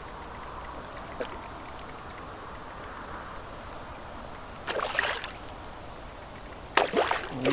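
River water flowing steadily, with two short splashes about five and seven seconds in as a hooked chub is played in.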